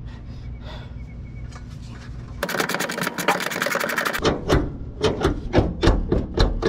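Ratchet wrench clicking: a fast run of clicks for nearly two seconds, then slower separate clicks a few times a second as the fuel tank strap bolts are worked loose.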